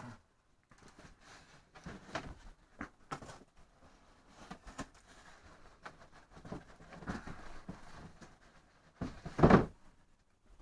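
Handling of a boxed RC model jet and its packaging: scattered rustles and light knocks, with one louder thump about nine seconds in.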